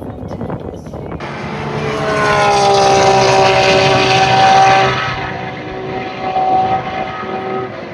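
A powered engine passing with a steady droning tone that rises slightly in pitch as it grows louder, peaks a few seconds in, then fades.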